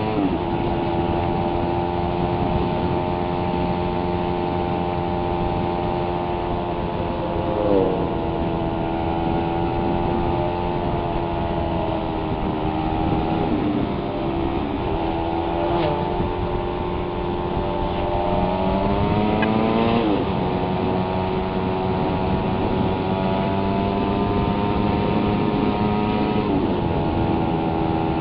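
Suzuki Raider 150 motorcycle engine under way, its note climbing and then dropping sharply several times as it is shifted through the gears, holding steady at cruising speed in between.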